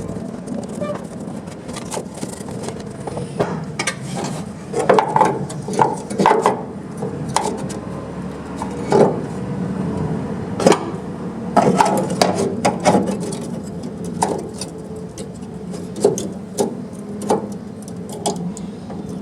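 Irregular knocks, clicks and taps of hand work, over a steady low hum, with clusters of louder knocks about a quarter and about two thirds of the way through.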